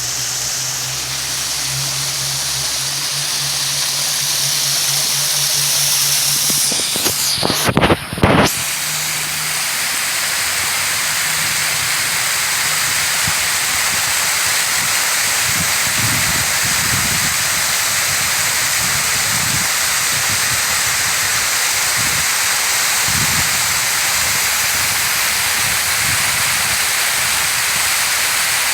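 Falling water of a park fountain splashing steadily, heard as a loud, even hiss. About seven seconds in there is a brief loud crackling disturbance, and a low hum under the water stops around then.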